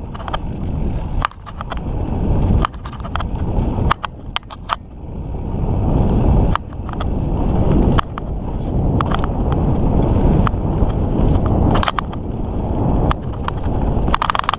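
Mountain bike being ridden over a dirt trail: a steady low rumble of tyres and air on the mic, with frequent sharp clicks and rattles from the bike as it goes over bumps.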